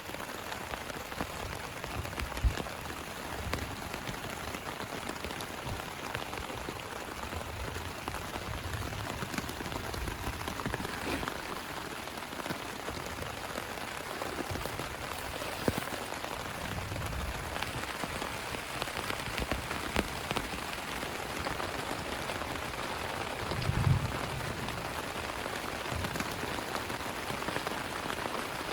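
Heavy rain falling steadily on a plastic tarp, with many individual drops tapping and a few dull low thumps, the strongest near the end.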